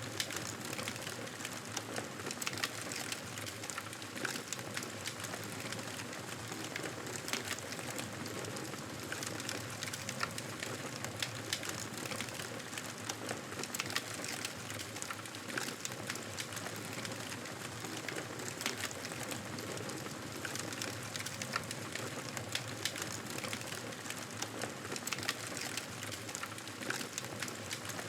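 Wood fire crackling in a fireplace: a steady hiss with frequent irregular small pops and snaps.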